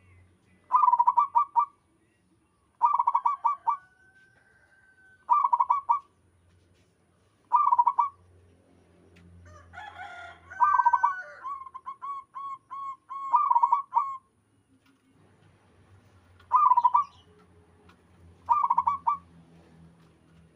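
Zebra dove (perkutut) cooing: short bursts of rapid, stuttering coos repeat every two seconds or so. About halfway through comes a longer phrase of evenly spaced coos, just after a brief, noisier burst.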